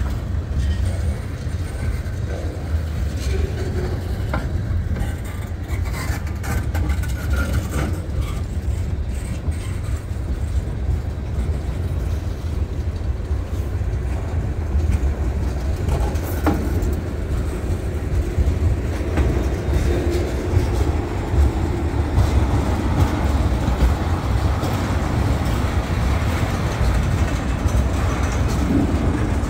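Cars of a passing freight train rolling by: a steady low rumble of steel wheels on the rails, with occasional clicks.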